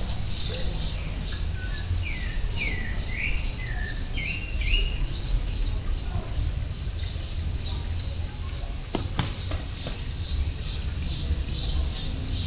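Birds chirping: short high chirps repeated about once a second, with a few lower swooping calls between two and four seconds in. A single sharp click comes about nine seconds in, over a steady low rumble.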